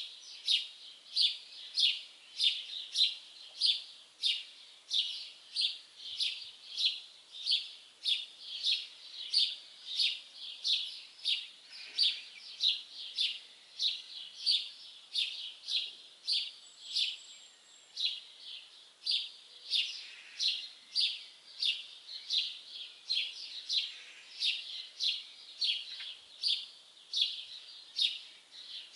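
A bird chirping over and over at an even pace, about two short, high chirps a second, with no pause.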